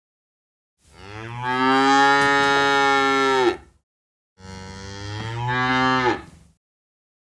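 Cow mooing twice: a long, loud moo about a second in, then a second moo that bends in pitch and ends by about six and a half seconds.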